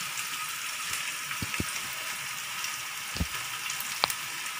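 Shallots, garlic, ginger, curry leaves and dried chillies sizzling steadily in hot oil in a wok while being stirred with a metal spatula, with a few short knocks and scrapes of the spatula against the wok.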